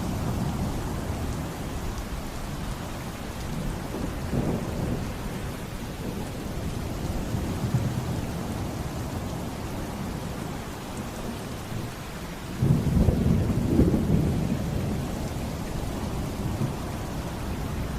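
Heavy rain with a steady low rumble of thunder. Well past halfway, a louder roll of thunder breaks in suddenly and rumbles for a couple of seconds.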